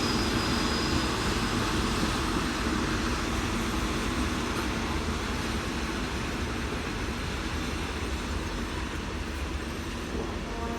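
Passenger train running past, a steady rumble of wheels on the track that slowly fades.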